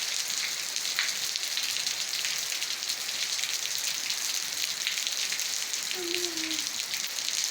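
Steady rain falling on vegetation, a constant hiss full of small drop patters. A short pitched call sounds once, about six seconds in.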